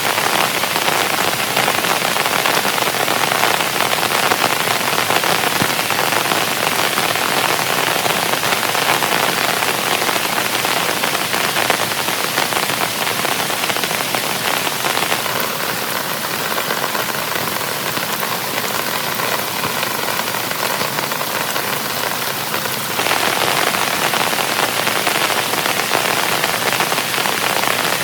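Heavy rain falling steadily and densely. For a stretch a little past halfway it is slightly quieter, then returns to full strength.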